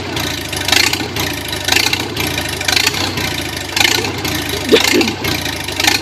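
Tractor engine running steadily at idle, with a burst of noise about once a second.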